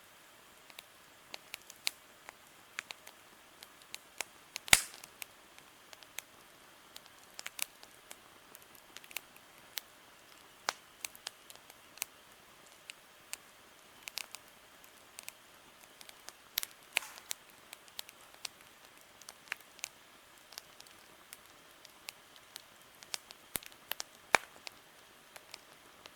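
Wood campfire crackling, with irregular sharp pops and snaps, one loudest pop about five seconds in.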